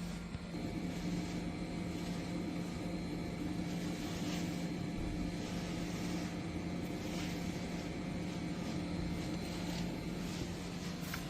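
Electric motor of a dog grooming kit with built-in vacuum running steadily, a low even hum that firms up about half a second in.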